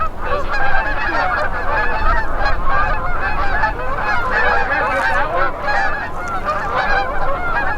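A large flock of geese honking steadily, with many calls overlapping one another.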